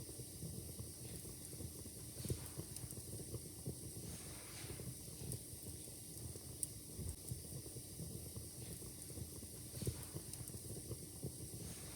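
Wood fire in a fireplace crackling steadily, with irregular small snaps and a few sharper pops.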